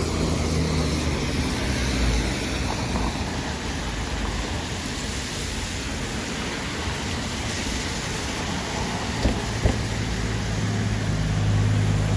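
Steady street traffic noise, with a heavy fire truck's engine hum growing louder over the last couple of seconds as it approaches. Two short clicks about nine seconds in.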